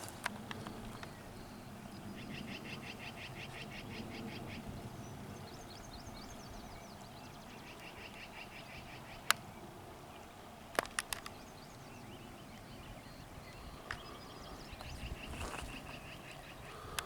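Frogs calling in repeated pulsed trills, in two long runs in the first half and again near the end, with a few sharp clicks between.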